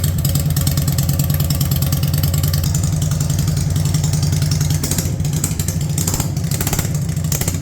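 1999 Yamaha V-Star 650's air-cooled V-twin idling steadily after a cold start with the choke out. It gets a little quieter about five seconds in.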